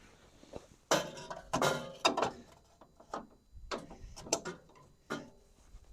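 Several short metallic clinks and scrapes of a socket and ratchet being handled and fitted onto a bolt to check its size.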